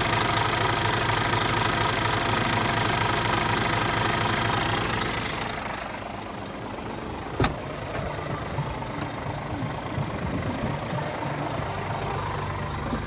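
Scania G450 truck's six-cylinder diesel engine running steadily. It drops to a quieter level about five seconds in and keeps running. A single sharp knock comes about seven seconds in.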